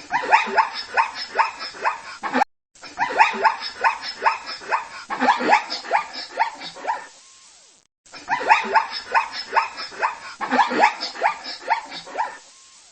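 Small dog barking in quick runs of high yaps, about three a second, with two brief pauses between runs.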